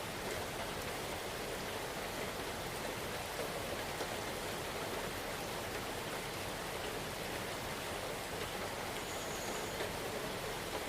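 Steady rain, a dense even patter of drops falling on leaves and ground.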